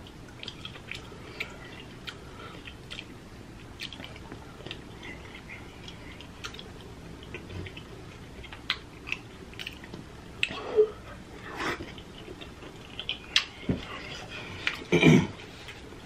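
Close-up mouth sounds of eating a seafood boil with the fingers: soft wet chewing with many short clicks, a few louder ones in the second half.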